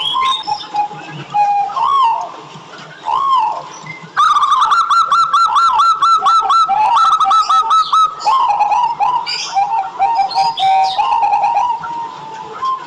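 Local zebra dove (perkutut) cooing: arching, rolling notes, then about four seconds in a fast, loud run of rhythmic notes with high chirping over it that eases off after a few seconds.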